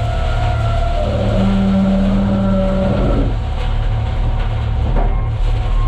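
Case 521 wheel loader's diesel engine running under load, with steady whining tones from the machine that change pitch about a second in and again around three seconds in.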